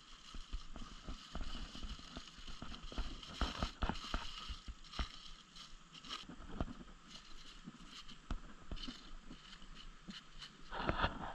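Irregular small clicks, taps and rustles of cooking gear being handled at a campfire, over a steady high-pitched background.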